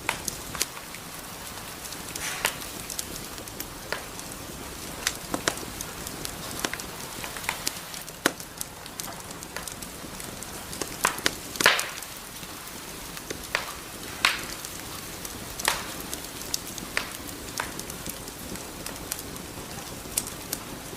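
Wood fire crackling in a fireplace: irregular sharp pops and snaps over a soft steady hiss of burning logs, with a cluster of louder pops about halfway through.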